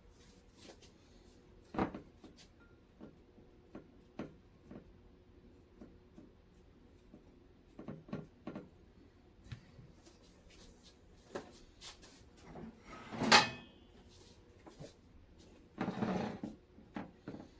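Quiet kitchen handling sounds: a scattered series of light knocks and clicks, with one much louder knock about thirteen seconds in and a scuffing sound lasting about a second near the end.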